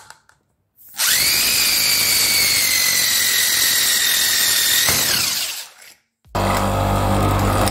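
Electric power tool motor running at speed with a high whine that sags slightly, then winding down about five seconds in. Music starts near the end.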